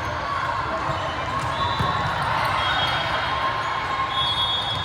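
Indoor sports-hall noise during a club match: a steady hum of crowd voices, with a few short high sneaker squeaks on the court floor and a ball thump about two seconds in.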